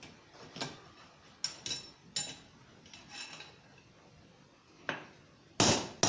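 Steel being worked with a blacksmith's hammer on the anvil: a few light, irregular metallic taps and clinks, then two heavy hammer blows near the end.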